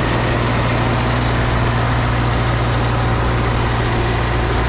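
ATV engine running steadily with a constant low hum, working through deep snow without stalling.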